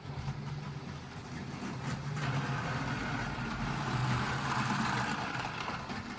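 Model train running on a layout with a steady low hum; from about two seconds in it gets louder with a rushing rattle of wheels on track as it passes close by, easing off near the end.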